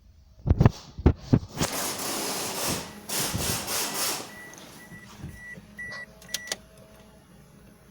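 Someone at a car just before an engine start: a few heavy clunks and a stretch of rustling, then a run of short, high electronic beeps, with a few clicks near the end.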